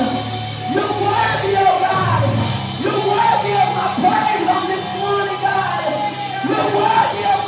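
Live gospel worship music: a church band playing under singers who hold long, gliding notes.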